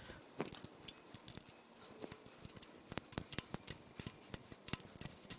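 Faint, irregular clicks and ticks of hand tools working loose the EGR line fitting on the intake of a GM 5.7L Vortec V8.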